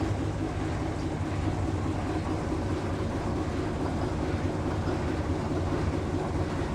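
A locomotive standing at idle, giving a steady low hum.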